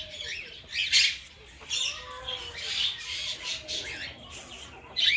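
Aviary birds calling: a run of short, high squawks and chirps, several in quick succession and overlapping.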